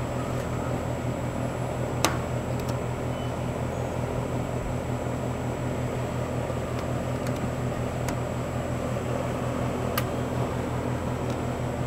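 A steady mechanical hum, like a fan or motor running, with a few sharp clicks about two seconds in and near the end.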